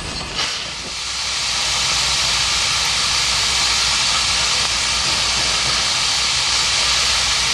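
Steam locomotive venting steam: a loud, steady hiss that builds over the first two seconds and then holds.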